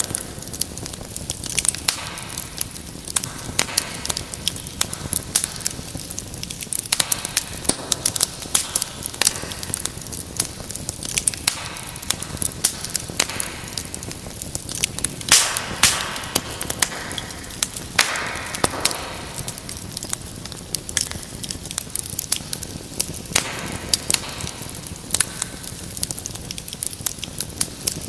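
Wood fire burning in a fireplace, crackling with irregular sharp pops and snaps over a steady hiss; a few louder pops come about halfway through.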